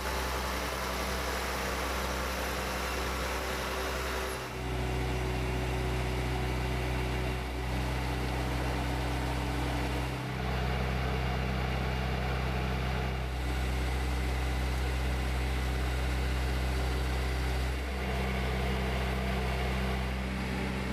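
Engine of a road-rail catenary wiring truck running steadily, with a deep hum. It breaks or shifts suddenly a few times.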